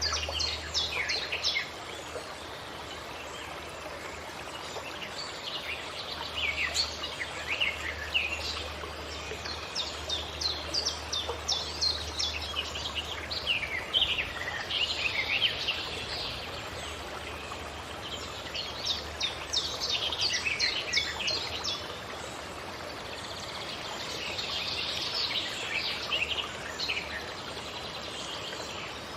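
Forest birds singing: quick, high chirping and trilling phrases come in clusters every few seconds over a steady background hiss and a low hum.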